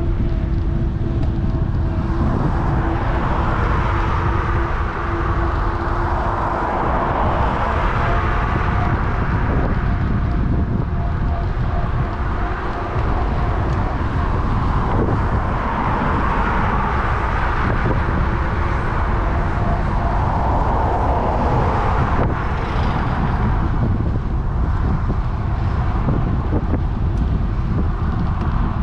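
Wind rumbling on a bike-mounted action camera's microphone, with road traffic going by: several vehicles swell up and fade away in turn.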